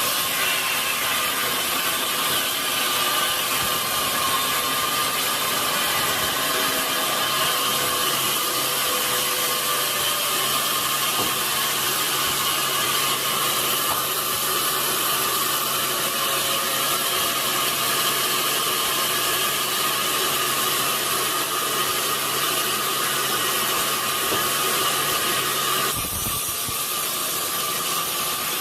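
Sawmill saw and its machinery running under load through a large log, a steady loud rushing noise with a steady high whine. The sound shifts abruptly about two seconds before the end.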